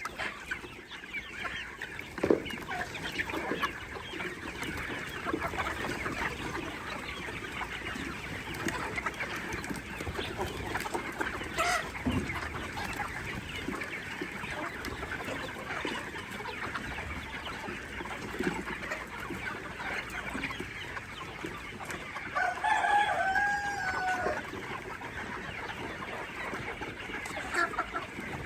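A brood of baby chicks peeping continuously in a dense chorus of short, high chirps. About three quarters of the way through, an adult chicken gives one louder, lower call lasting about a second and a half.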